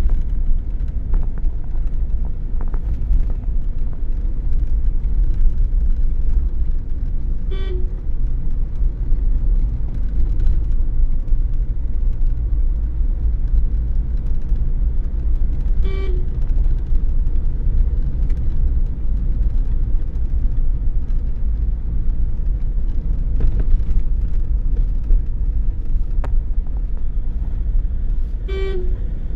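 Car driving along a road: a steady low rumble of engine and tyres, broken by three short horn toots, the last near the end.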